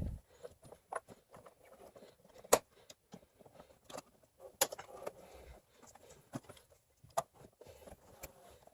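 Tools and parts being handled: irregular clicks, clinks and light knocks, the loudest about 2.5 and 4.5 seconds in.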